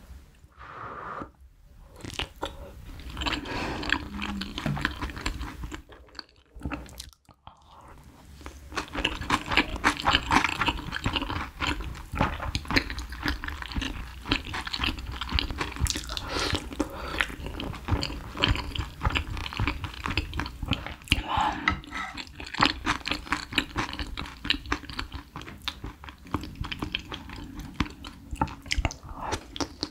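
Close-miked eating sounds: chewing of soft braised potato, fish and rice in spicy sauce, with many quick wet smacks and clicks. It goes briefly quiet twice about six and seven seconds in, then the chewing comes back more strongly.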